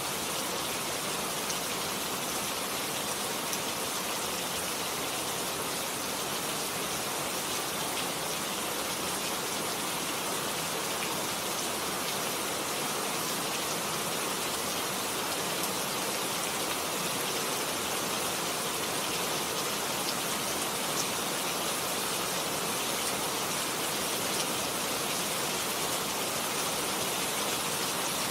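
Steady rain falling on a garden, a constant even wash with many single drops ticking through it.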